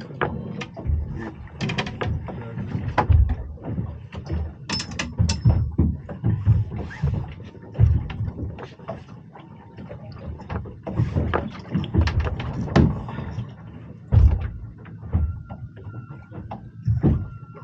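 Irregular knocks, thumps and scrapes from a freshly caught strap eel wriggling on the boat while it is handled and unhooked, with a couple of heavier thuds late on.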